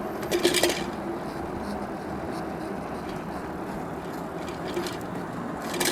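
Steady road and riding noise from an e-bike on the move, with a brief high hiss about half a second in.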